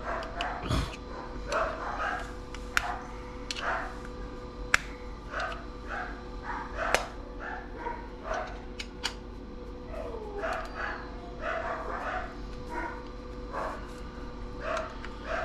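Dogs barking over and over in short yelps, with a few sharp clicks of tools working a tuner loose from an old CRT TV's chassis.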